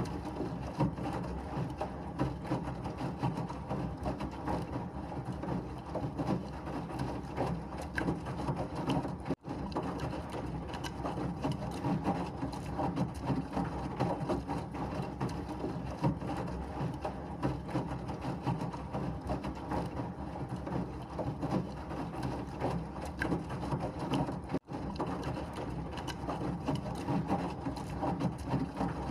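Washing machine running steadily, a constant churning noise with a low hum and faint rattling. The sound drops out for an instant twice.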